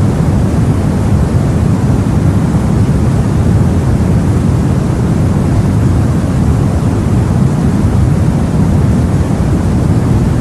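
Steady, deep rumble of the sea and wind, heard aboard a boat, with no separate wave crashes standing out.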